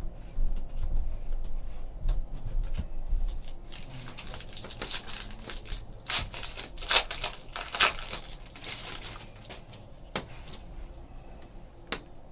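Trading card pack wrappers being torn open and crinkled, with cards rustling as they are handled. The tearing and rustling is busiest in the middle, and a couple of sharp clicks follow near the end.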